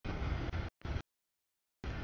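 Double-stack intermodal freight train passing close by, its wheels and cars making a broad rumbling noise. The sound comes in choppy bursts that cut off abruptly to dead silence between them.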